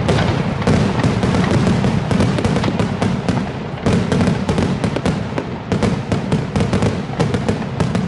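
Fireworks display: a dense, rapid barrage of bangs and crackling over a continuous low rumble, with a brief lull about four seconds in before it picks up again.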